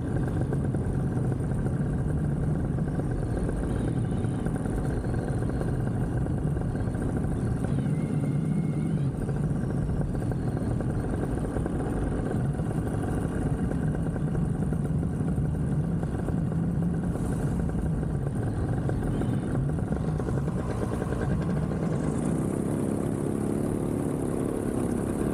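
Vittorazi Moster 185 single-cylinder two-stroke paramotor engine running steadily at low throttle during a descent, its pitch rising somewhat about 22 seconds in.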